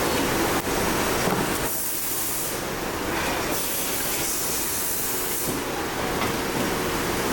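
Steady workshop machinery noise, with a stretch of air hissing from about two seconds in to about five and a half seconds.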